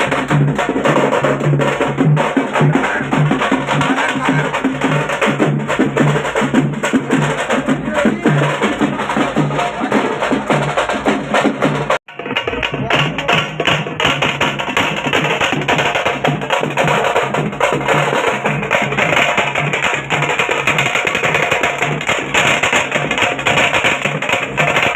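Loud, fast drumming with dense, rapid strokes, broken by a sudden short gap about halfway through.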